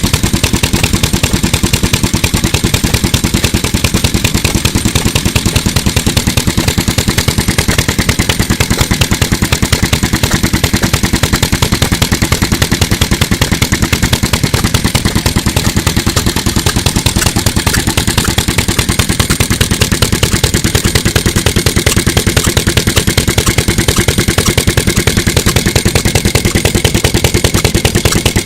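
Mitsubishi Katsura Type J1 single-cylinder stationary petroleum engine (3 hp, 398 cc, around 1955) running steadily, its firing a fast, even chug with clatter.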